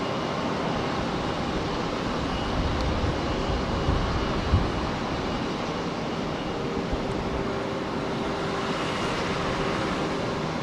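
Airbus A350-900's Rolls-Royce Trent XWB jet engines, a steady, even rush with a few faint steady tones in it. A brief low thump about four and a half seconds in.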